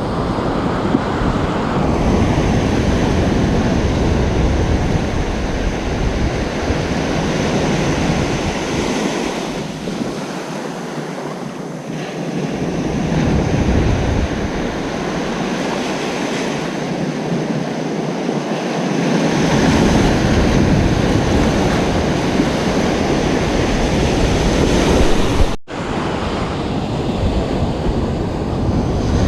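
Ocean surf breaking and washing up the beach, the noise swelling and easing in slow waves. Wind rumbles on the microphone except for a few seconds in the middle. Near the end the sound cuts out for an instant.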